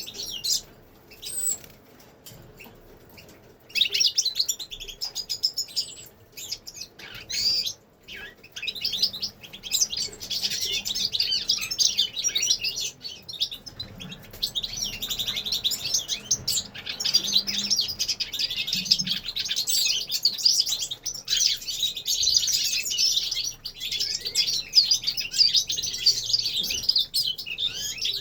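Several caged finches, goldfinches and canaries among them, singing together in fast, overlapping twittering and trills. Only a few calls for the first few seconds, then a dense, continuous chorus.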